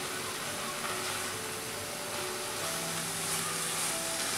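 Grated bottle gourd and milk sizzling steadily in a kadhai over a gas flame while a spatula stirs it, the milk boiling off as the mixture turns dry.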